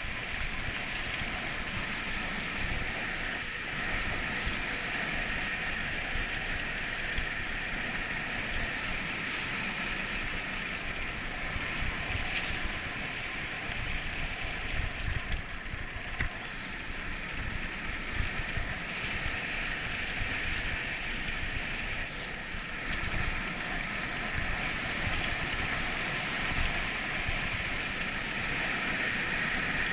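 Steady rushing noise with a flickering low rumble, of the kind that wind and rolling tyres make on a moving ride. The hiss loses its top end briefly twice, near the middle and a few seconds later.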